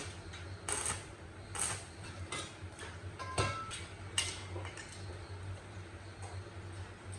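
Light metallic clinks and taps, about one a second, as metal parts or tools are handled; one clink in the middle rings briefly. A low steady hum runs underneath.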